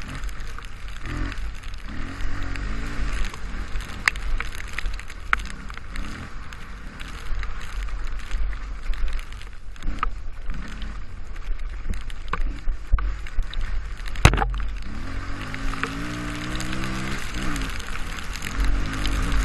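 Dirt bike engine running under a rider, its pitch rising and falling with the throttle and climbing steadily about fifteen seconds in, over a steady hiss. Scattered sharp knocks, the loudest about fourteen seconds in.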